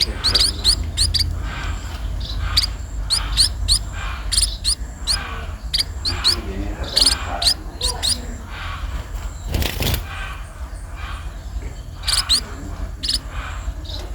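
Sparrow (burung pipit) chirping over and over in quick clusters of short, high chirps while being fed, with a brief rustle about ten seconds in.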